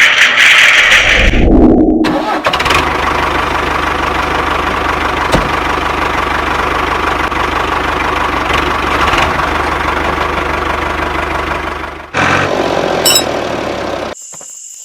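A tractor engine starting, then running steadily for about ten seconds before the sound cuts off abruptly. A loud hiss-like noise fills the first second or so.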